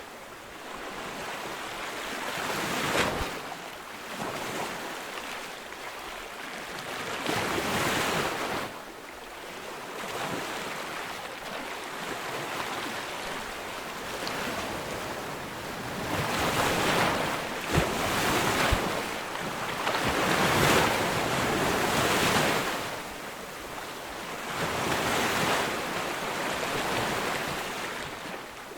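Ocean waves breaking on a beach, the surf swelling and washing back every few seconds, with a few louder breakers in the second half.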